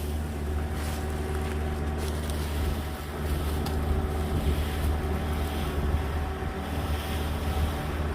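Engine running steadily at a constant speed: a low hum with a few steady tones above it.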